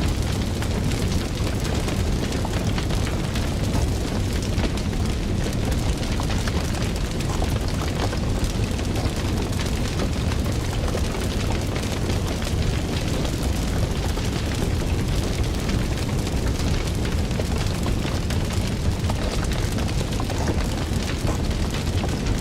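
Fire crackling: a dense, steady run of small pops and snaps over a constant low rumble of the burning flames.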